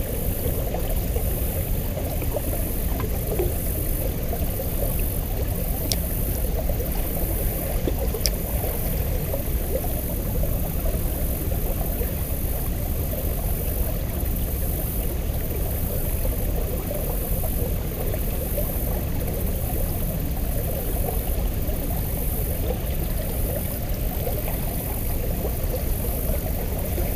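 Shallow river current rushing steadily, an even noise with no change through the whole stretch.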